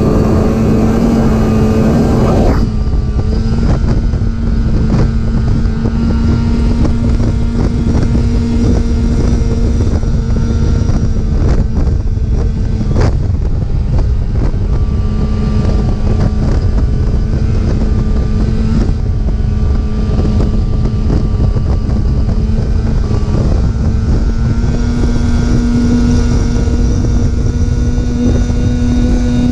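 Snowmobile engine running at a steady cruising speed, its note holding level and rising a little near the end, with wind noise on the microphone.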